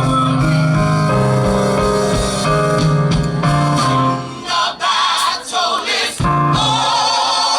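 Gospel group singing with band accompaniment and a steady bass line. About four seconds in the instruments mostly drop out, leaving the voices, with the bass returning briefly near the end.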